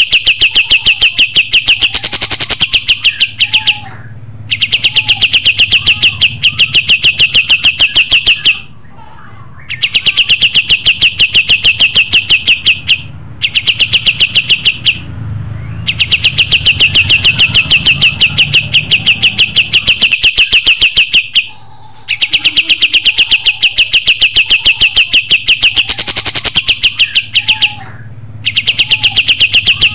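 Kapas tembak songbird singing: long, loud trills of rapid, evenly repeated high chirps lasting several seconds each, broken by short pauses. It is played as a tutor recording ('masteran') for training other birds.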